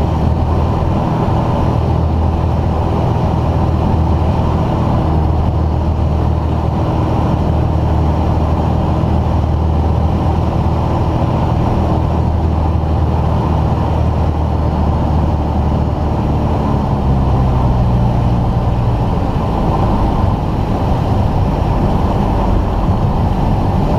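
Cockpit drone of a light piston aircraft's engine and propeller, steady and loud, with the engine note shifting about two-thirds of the way through as power is changed on the approach.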